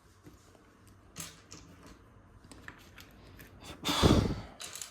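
Scattered light clicks of LEGO bricks being handled and pressed together, then a loud breath out about four seconds in.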